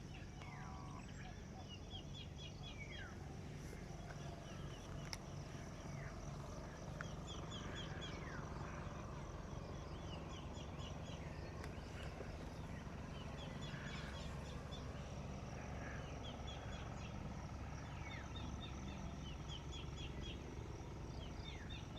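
Wild birds calling, with repeated quick runs of short high notes and a few downward-sliding calls, over a steady high insect chirring and a low rumble.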